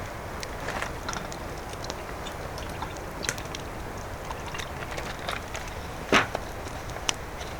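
Wood campfire crackling, with irregular snaps and pops over a steady low rumble; one louder pop about six seconds in.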